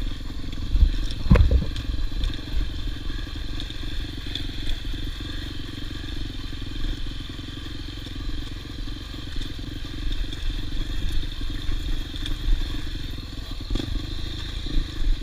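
Honda XR250 Tornado trail motorcycle's single-cylinder engine running steadily at low speed over rough ground, with a few heavy thumps and clatter from the bike about a second in.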